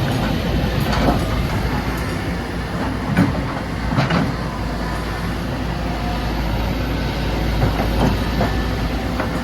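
Kobelco crawler excavator's diesel engine running steadily under load, with a few sharp metal clanks from the machine in the first half.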